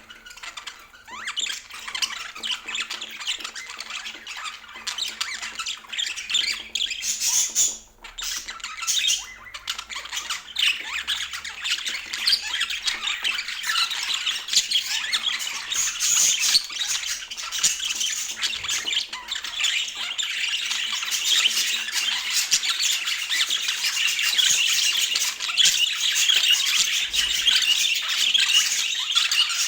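Budgerigars chattering continuously, many quick overlapping high calls, with a short lull about eight seconds in and busier chatter in the second half.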